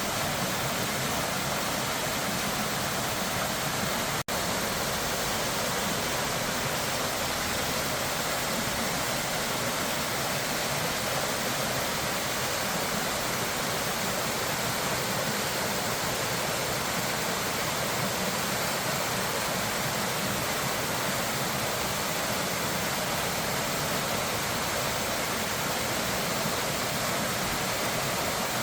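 Steady rushing water, with a momentary dropout about four seconds in.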